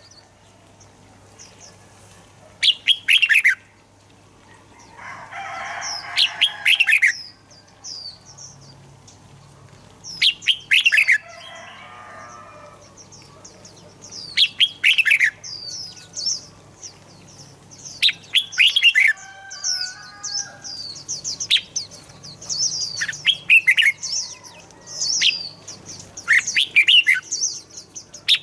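Red-whiskered bulbul singing: loud whistled song phrases repeat about every four seconds over a steady stream of softer, high chirps. Twice, near five seconds in and again near twelve seconds in, a brief rustling noise sounds under the song.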